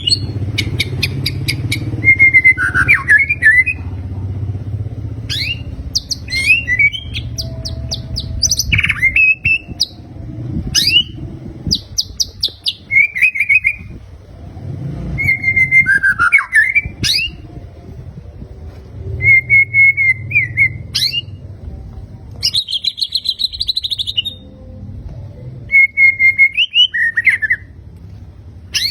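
White-rumped shama (murai batu) singing loud, varied 'fighter' song bursts. The phrases mix clear whistles, rapid trills and a harsh buzzy rattle about two-thirds of the way in, with short pauses between them, over a low background hum.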